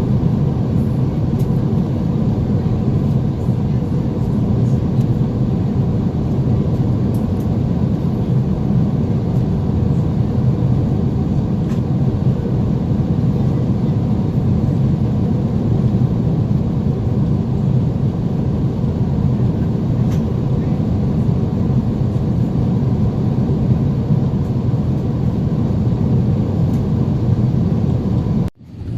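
Steady, even rumble of an Airbus A350-900 airliner, unchanging in pitch and level, cut off abruptly near the end.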